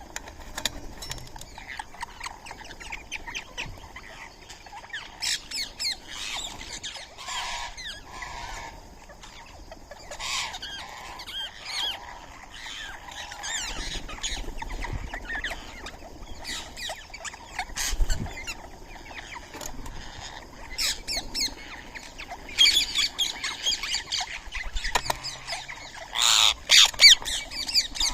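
Birds, Indian ringneck parakeets among them, squawking and chattering in a steady stream of short, harsh calls that grow loudest near the end. There is a single dull thump about halfway through.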